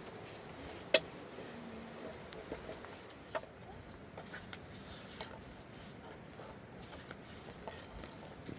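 Scattered light knocks and clicks over low background noise, with a sharp one about a second in and another a couple of seconds later.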